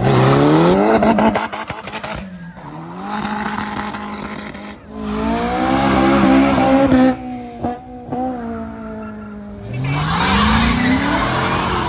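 Car engines accelerating hard, pitch climbing as they rev out: one pull at the start, a long high-revving run in the middle that cuts off sharply with a couple of quick blips, and another rising pull near the end.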